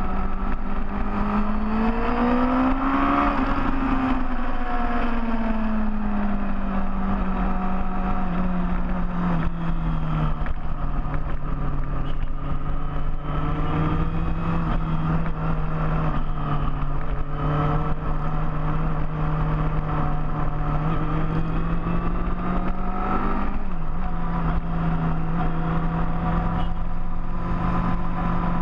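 Big motorcycle engine running under way at a steady pitch, revving up for a couple of seconds near the start and settling back, with another brief rise and dip near the end.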